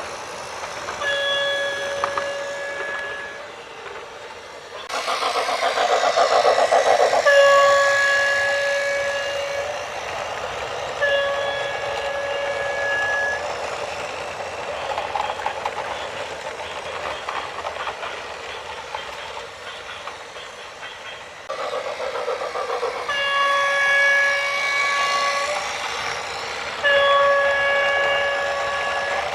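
A vehicle horn sounding repeated long blasts, each about two seconds. Louder rushing rumble comes in twice, about five seconds in and again about twenty-one seconds in.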